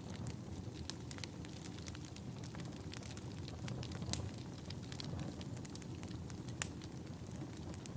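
Wood fire burning in a fireplace: a steady low rumble of flames with irregular sharp crackles and pops from the burning logs, one louder pop near the end.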